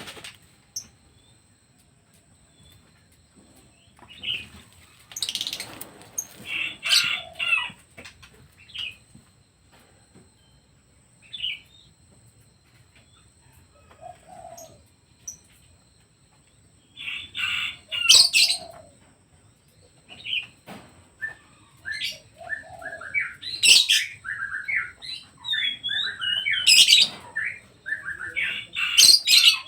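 Pet birds chirping and calling in short, irregular bursts, busier in the second half, with brief wing-flapping.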